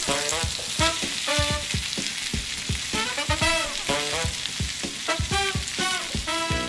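Diced potatoes, onions and bell peppers sizzling as they fry in a skillet, with a spatula scraping the pan and turning them over. Background music with short bending notes plays over it.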